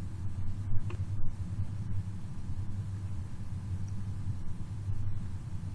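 Low, steady rumbling hum centred near 100 Hz with fainter overtones, recorded through a CCTV camera's microphone. Its source is unexplained: the mains-hum and power-adapter frequencies do not match it.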